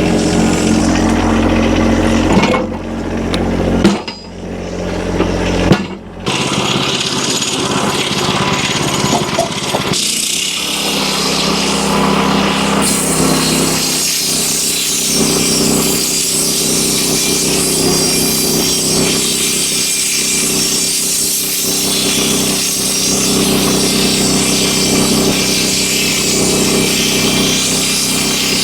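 An engine running steadily cuts off a couple of seconds in, followed by two sharp knocks. Then a Wood-Mizer LX25 sawmill runs steadily, and from about ten seconds in its band saw is cutting through a hemlock beam with a steady hum and a high hiss.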